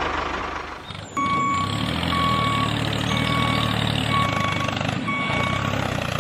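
Vehicle reversing alarm beeping steadily about once a second over a running engine. The beeping starts a little over a second in, after an earlier engine sound fades away.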